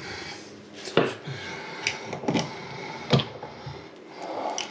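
A few separate light knocks and clicks of small faucet cartridge parts being handled and set down, the loudest about three seconds in.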